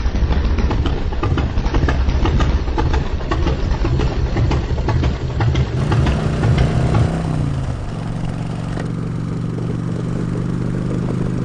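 Harley-Davidson Road King's V-twin engine idling with an uneven, pulsing beat. About six seconds in its pitch rises and falls, and it then settles into a steady engine note.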